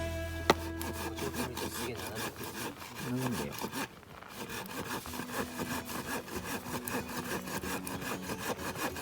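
Rapid, evenly repeated rasping strokes on wood, like sawing or scraping, over faint background music.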